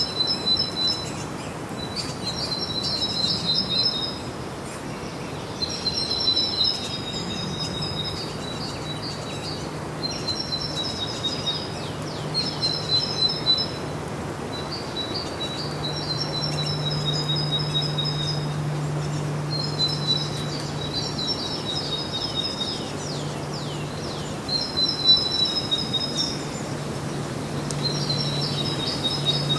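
A songbird singing short, high-pitched phrases of trills and quick downward-sweeping notes, repeated about every two seconds. A faint, steady low hum starts about a quarter of the way in.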